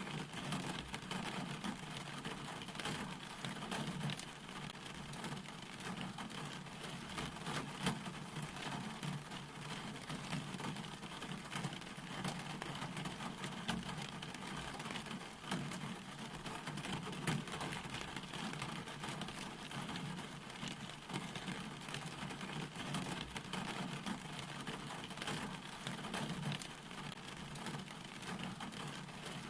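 Steady rain falling, with a dense scatter of separate drop hits on nearby surfaces.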